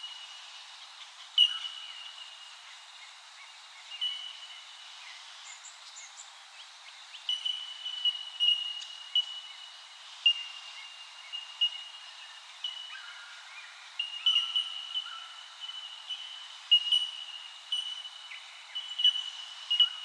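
A chorus of birds calling with clear, high, ringing notes held at one steady pitch. The notes start sharply, repeat and overlap, and a few fainter calls sit lower down.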